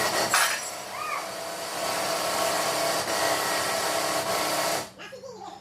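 A steady, loud rushing hiss of blowing air, lasting about five seconds and cutting off suddenly near the end.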